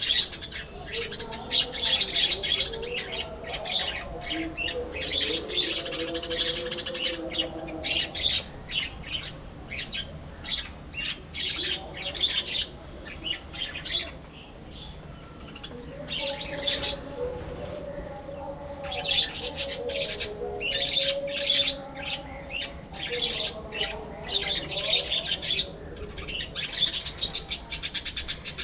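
A flock of budgerigars chirping and warbling all at once, a dense overlapping chatter with a brief lull about halfway through.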